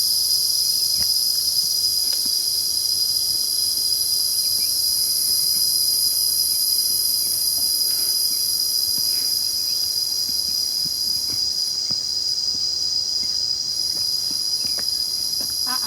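A loud, steady chorus of insects in the forest, a shrill drone held on several high pitches at once without a break.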